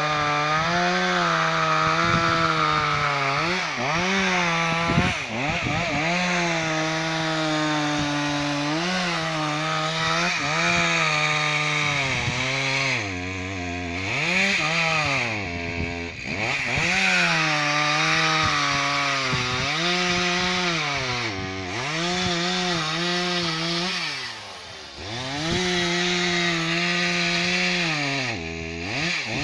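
Two-stroke chainsaw cutting timber at high revs, its pitch wavering under load. It drops sharply back toward idle several times before revving up again.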